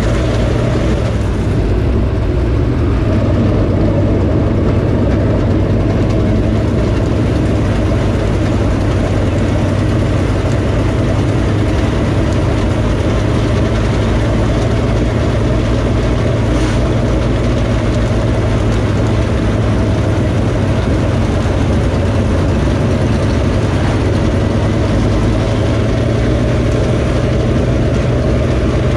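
Dirt late model race car's V8 engine running at a steady, even speed, heard loud from on board the car.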